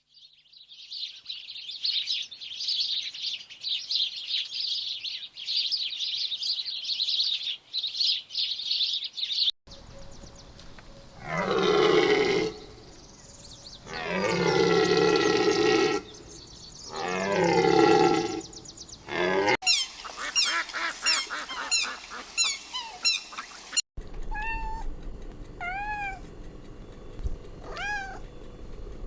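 A run of different animal calls cut one after another: about ten seconds of dense, rapid high chirring, then three long drawn-out calls, then a few seconds of fast high chirps, and finally short rising-and-falling calls repeated about once a second.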